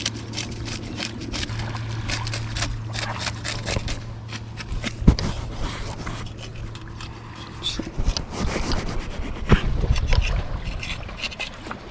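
Knife scraping and cutting a freshly caught hogfish: a quick series of short scrapes, with a heavier thump about five seconds in and another near the ninth second.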